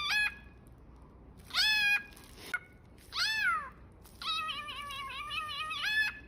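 Cockatiel mimicking a cat's meow: a series of meow-like calls, two short arched ones and then a long wavering one that flicks upward at the end.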